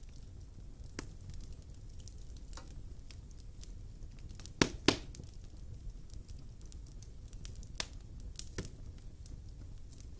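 Wood fire burning in a fireplace: a low steady rumble of flames with scattered crackles, and two loud sharp pops close together about halfway through.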